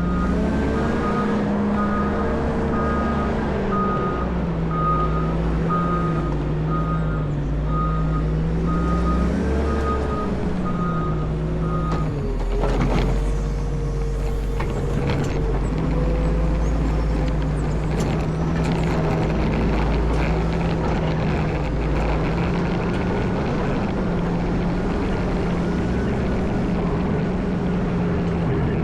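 Cat 140M motor grader's diesel engine running under changing load, its pitch rising and falling. Its reversing alarm beeps about once a second for the first twelve seconds or so, then stops. A sharp knock comes shortly after.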